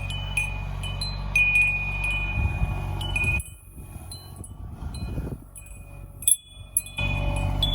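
RK25 compact tractor engine running a PTO rotary tiller, a steady low hum, with repeated short, high bell-like metallic pings over it. The hum drops away for a few seconds in the middle, then comes back.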